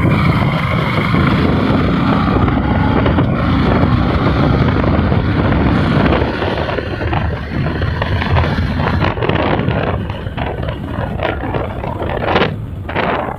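Wind buffeting the microphone on a moving Hero Glamour motorcycle, over the bike's engine and road noise. It eases off about six seconds in, as the bike slows.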